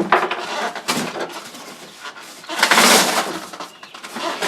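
Corrugated cardboard packaging being torn apart by hand, in several rasping rips. The longest and loudest rip comes about two and a half seconds in.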